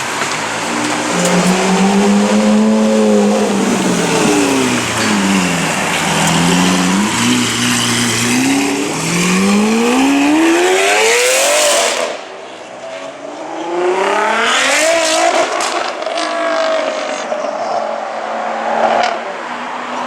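Lamborghini Aventador LP700-4's V12 with an Armytrix aftermarket exhaust, loud, revving and accelerating: the pitch holds, dips, then climbs steeply until it cuts off sharply about twelve seconds in, followed by several more shorter rising pulls.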